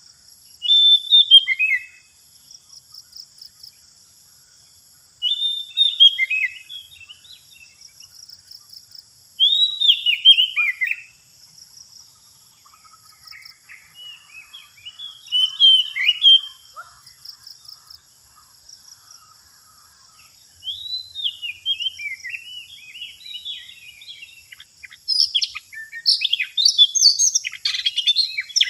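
Oriental magpie-robin (kacer) singing in bursts of quick, varied whistled phrases a few seconds apart, growing denser near the end. A faint steady high pulsing buzz runs underneath.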